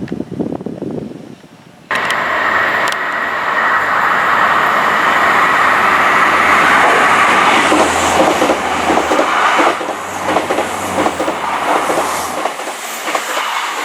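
A nine-coach South Western Railway diesel multiple unit on the Salisbury service passes close by with a loud, steady run of engine and wheel-on-rail noise. The noise starts abruptly about two seconds in, and the wheels clatter over rail joints near the end.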